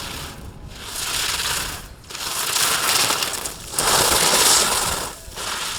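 Skis scraping on hard-packed snow through slalom turns: a hissing scrape with each turn, three turns about a second and a half apart, the loudest about two-thirds of the way through.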